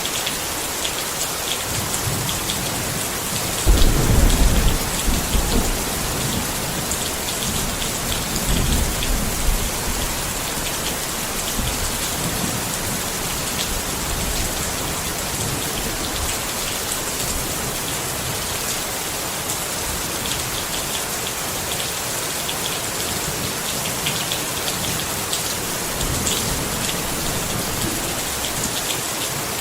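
Steady rain falling on a tent, with a low rumble of thunder about four seconds in and a weaker one around nine seconds.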